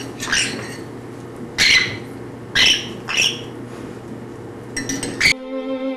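Baby African grey parrot's food-begging calls: short, harsh squawks about once a second while being hand-fed. About five seconds in, violin music takes over abruptly.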